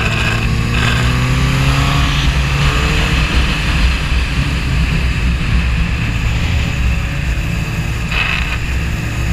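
Suzuki GSX-R 1000's inline-four engine running under way, its pitch rising over the first few seconds as the bike accelerates, then holding steady over constant wind and road noise.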